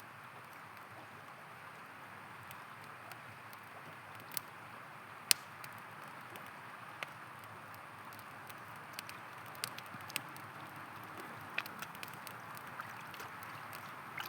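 Steady rush of flowing river water with irregular sharp pops and crackles from a campfire, the loudest pop about five seconds in.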